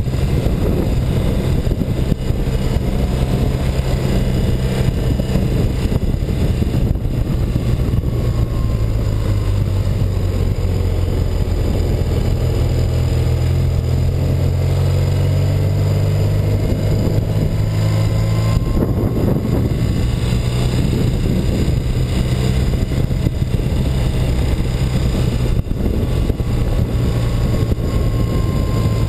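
1984 BMW R100RS's air-cooled boxer twin running steadily under way. Its note changes abruptly about two-thirds of the way through.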